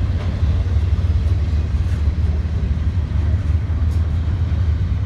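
Double-stack intermodal freight train rolling past, its loaded well cars making a steady, low noise of wheels on the rails.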